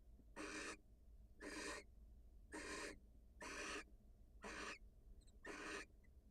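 Barn owl 'snoring' calls: short rasping hisses repeated about once a second, six in all, the breathy food-begging call of barn owls at the nest.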